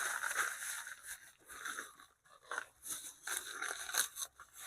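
Irregular crinkling and rustling with small clicks as hardware is handled: bolts being picked out of their packaging.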